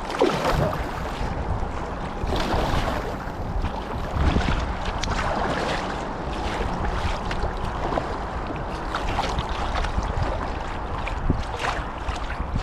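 Kayak paddle strokes splashing and dripping in the water every second or two, over a steady low rumble of wind buffeting the microphone.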